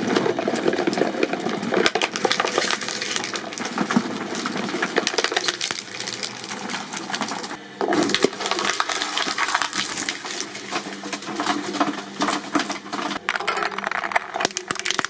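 Shredding machine crushing and tearing material: a dense, continuous clatter of cracks and snaps, with a brief dip in level about eight seconds in.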